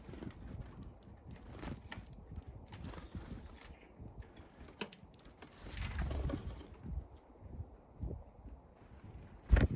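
Small birds at a window bird feeder: scattered light taps and knocks on the feeder, with a few faint high chirps, and one loud sharp knock near the end.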